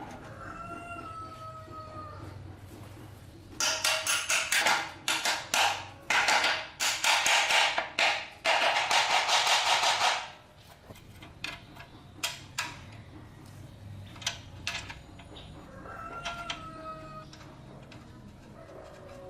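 A rooster crows twice, once near the start and once about 16 seconds in. Between the crows come several seconds of loud, rapid rasping strokes, a few per second, that merge into a steady hiss before stopping abruptly.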